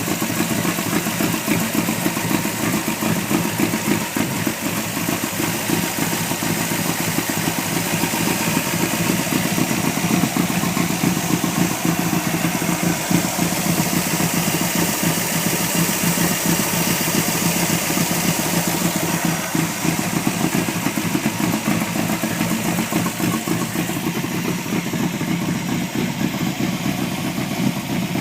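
Engine of a 1936 International Harvester C-1 hot rod truck running steadily at an even speed, with no revving.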